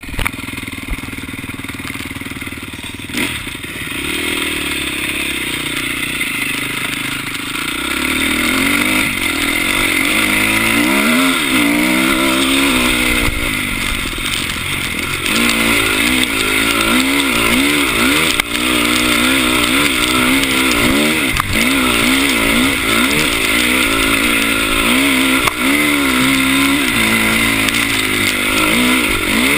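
Dirt bike engine running as it is ridden, steady and quieter at first, then from about eight seconds in revving up and dropping back over and over, roughly once a second, as the throttle is worked over the trail.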